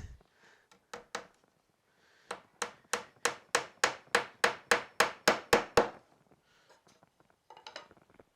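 A hammer tapping small nails into the wooden lats of a beehive lift: two light taps, then a quick, even run of about a dozen blows at about four a second, then a few softer knocks near the end.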